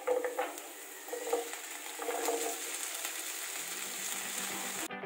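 Onion, garlic and cauliflower florets sizzling in hot oil in a frying pan as the cauliflower is tipped in and stirred. The sizzle cuts off suddenly near the end, where guitar music starts.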